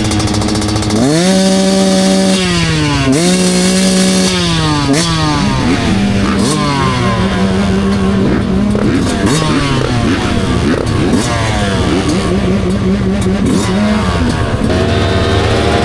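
Motocross dirt bike engines at race pace: the nearest engine revs up hard and drops in pitch at each gear change, about a second in and again around three seconds in, while other bikes' engines rise and fall around it.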